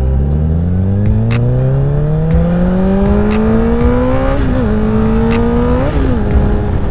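Honda CBR1000RR sport bike's inline-four engine pulling hard with its pitch rising steadily, dropping at a gear change about four and a half seconds in and again about six seconds in, then holding steady at a cruise. Wind rumble on the microphone.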